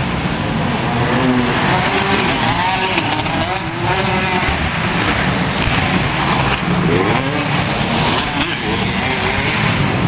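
Motocross dirt bikes running at a track, engines revving up and down with a loud, steady din behind them.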